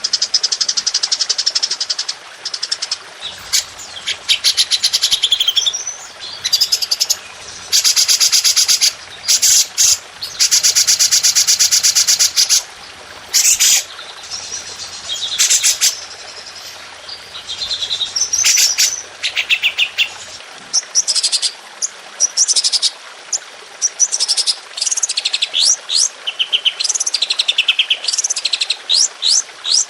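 Songbirds singing loud, high-pitched song made of long, very rapid rattling trills ('tembakan', shot-like bursts of notes) mixed with shorter chirps and sweeping phrases.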